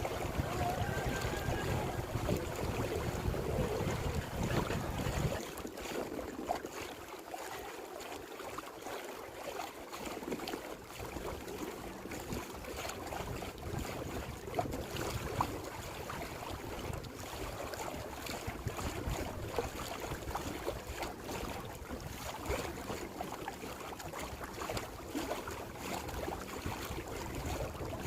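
Water rushing and splashing beneath a moving, deckless PVC pipe kayak, with wind buffeting the microphone. The wind rumble is heavy at first and eases off about five seconds in.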